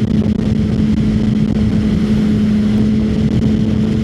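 2021 Kawasaki ZX6R's inline-four engine, fitted with a slip-on exhaust, running at a steady speed while the bike is ridden. It holds one unchanging hum, with wind and road noise mixed in.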